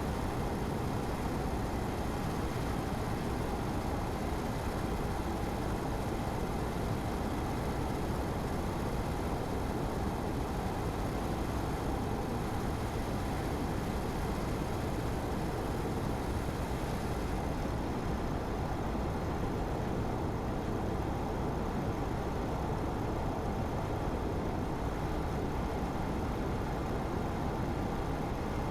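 Car driving steadily along a road: constant tyre and engine noise, the high hiss easing slightly about two-thirds of the way through.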